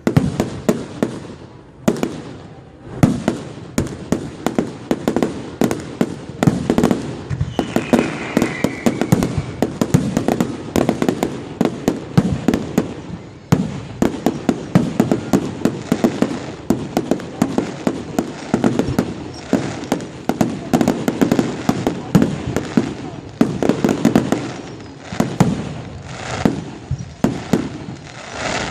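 Fireworks display: a dense, continuous barrage of bangs and crackling explosions, many loud reports in quick succession, with a brief whistling glide about eight seconds in.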